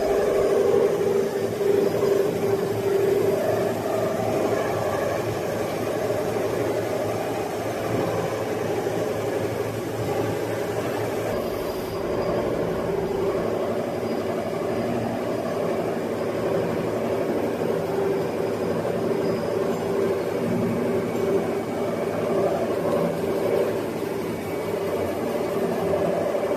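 CNC machine tool running during machining, a steady mechanical hum with a wavering tone.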